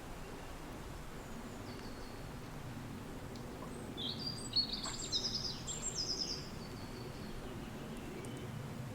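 Steady low wind rush with birdsong: a bird sings a burst of rapid, high, quickly repeated notes starting about four seconds in and lasting a couple of seconds, after a fainter call about two seconds in.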